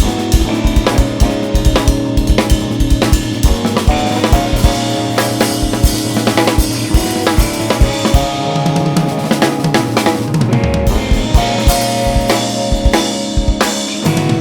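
Jazz-fusion band playing live, with a busy drum kit, kick, snare and rimshots hit rapidly, over a bass line and held pitched notes from the other instruments.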